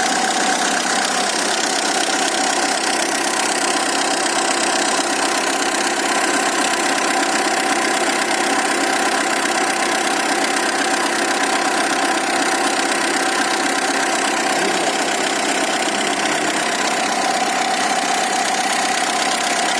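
Tata Indigo CS engine running steadily at a constant speed, with no revving. Its running speed is being set at the fuel pump.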